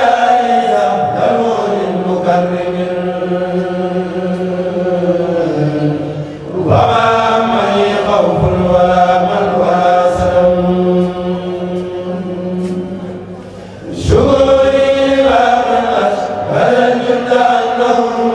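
A kourel, a group of voices chanting a khassida, Arabic religious verse, together. The notes are long and held, in phrases of about seven seconds, with a new phrase starting about seven and fourteen seconds in.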